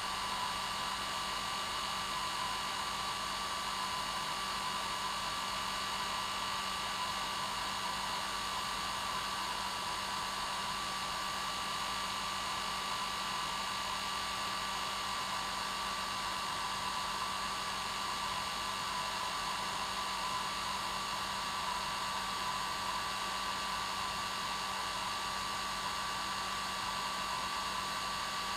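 Hair dryer running steadily: an even rushing hiss with a steady hum and a higher whine, unchanging throughout.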